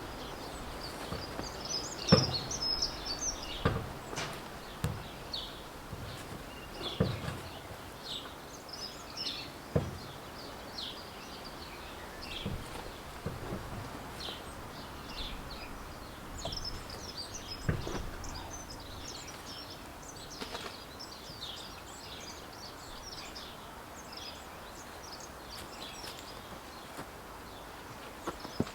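Small birds chirping and singing in short phrases throughout, with occasional sharp knocks and clunks from work on the tractor, the loudest about two seconds in.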